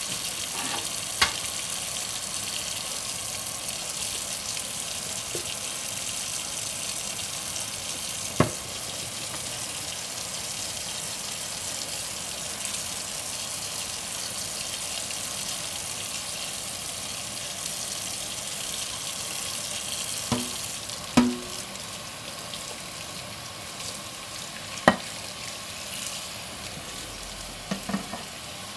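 Kitchen tap water running in a steady hiss during hand dishwashing, with several sharp clinks of dishes knocking together.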